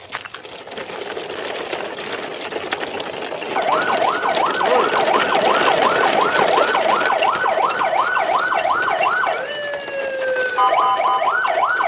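Fast warbling electronic siren, its pitch sweeping up and down about three times a second. It starts a few seconds in, breaks off briefly near the end and then starts again. Before it comes a rough rattling noise.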